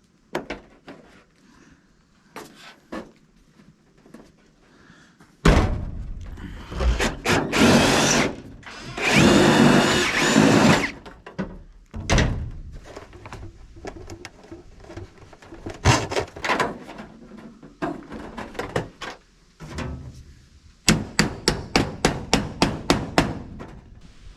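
Hand-tool and building work: scattered knocks and clunks, a stretch of dense, loud clattering lasting about five seconds, then near the end a quick run of about a dozen sharp strikes, roughly five a second.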